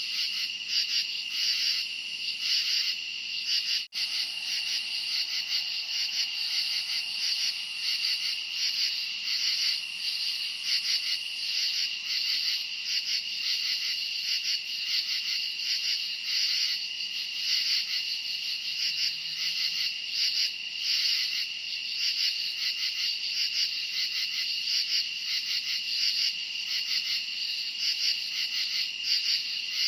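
Dense night chorus of crickets chirping in fast, steady, high-pitched pulses, with a brief dropout about four seconds in.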